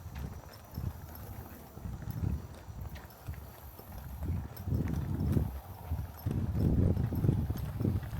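Footsteps of a person walking on a trail: a steady run of soft, low thuds, growing louder in the second half.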